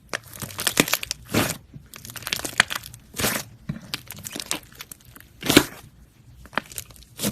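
Slime being squeezed and stretched by hand, making irregular crackling, popping squishes, the loudest about five and a half seconds in.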